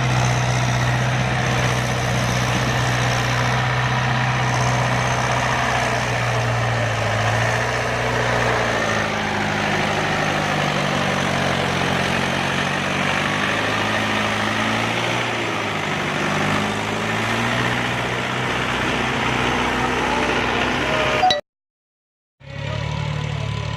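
Tractor engine running steadily. About eight seconds in, its speed shifts and wavers for several seconds before settling. The sound cuts out for about a second near the end.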